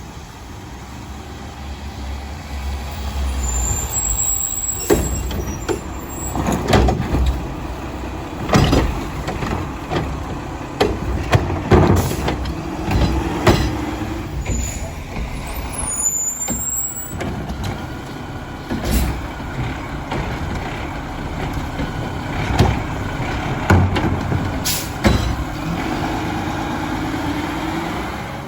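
Mack LR garbage truck with a Heil Odyssey body and Curotto Can cart arm working its route: the engine runs steadily under many sharp bangs and clatters, and there are air-brake hisses and a few brief squeals.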